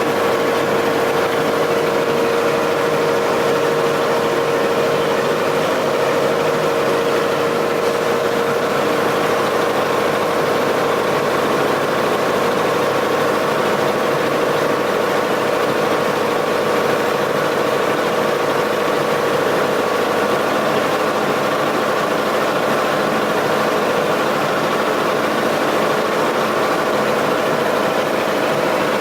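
Boat engine running steadily, a constant mechanical drone with a steady whine on top.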